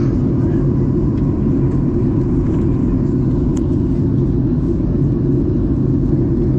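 Boeing 737-800 cabin noise: the steady low rumble of the CFM56 jet engines and airflow, heard from inside the passenger cabin.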